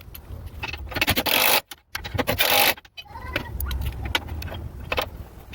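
Clicks and scrapes of work under the truck, with two loud bursts of noise, each about half a second long, around one and two seconds in.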